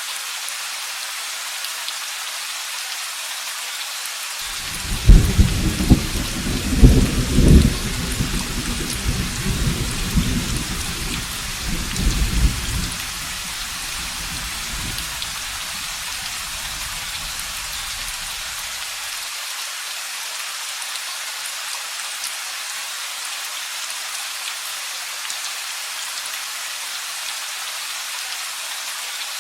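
Steady rain with a thunderclap about five seconds in, whose rumble peaks over the next several seconds and dies away by about two-thirds of the way through; the steady rain then carries on alone.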